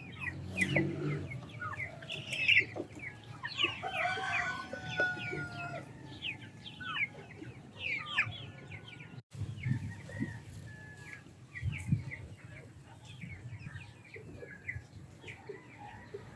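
Chickens clucking and calling, with many short high chirps throughout and a longer drawn-out call about four seconds in; the sound drops out briefly about nine seconds in.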